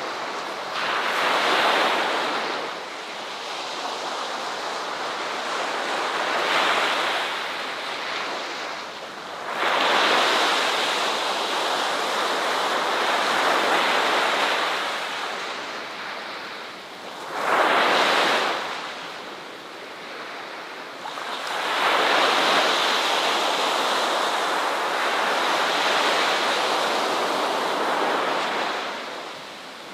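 Ocean surf: waves breaking and rushing in, each surge swelling and fading over a few seconds, with a short sharp crash a little past halfway.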